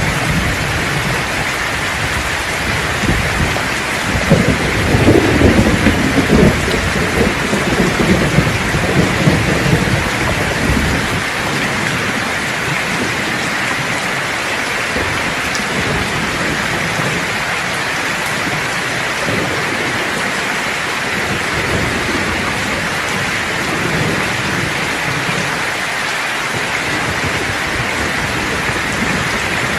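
Steady heavy rain with a roll of thunder rumbling between about 4 and 10 seconds in, easing back to the rain alone.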